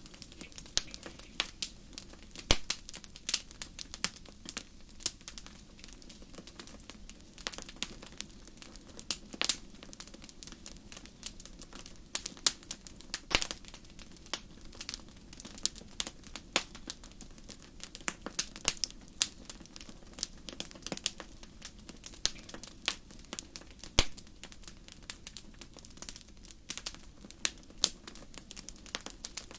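Wood campfire crackling, with irregular sharp pops and snaps, a few louder ones standing out, over a soft low steady hiss of burning.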